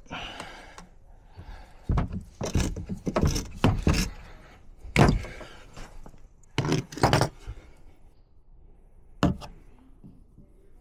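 Irregular knocks and clatters of hand work on a condensate drain line: about a dozen sharp hits, bunched in the first half and thinning out towards the end.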